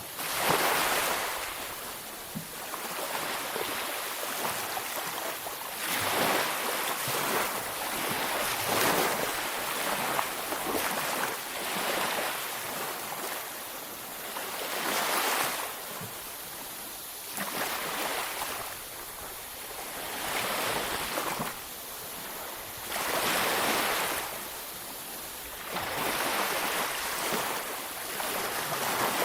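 Sea waves breaking on a beach, the surf rushing in and washing back in surges every few seconds.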